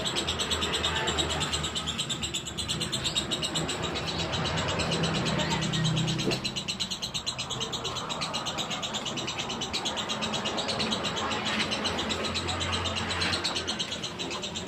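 Lovebird singing a long, unbroken 'ngekek' trill, a rapid high-pitched chattering that runs on without a pause, the nonstop song that bird keepers call 'konslet'.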